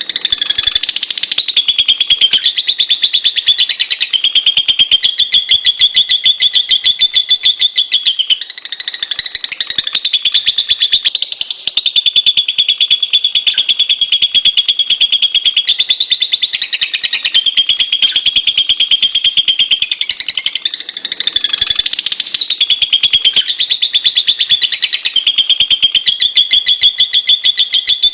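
Lovebird singing a long, almost unbroken stream of very rapid, high-pitched chattering notes, dipping only briefly twice.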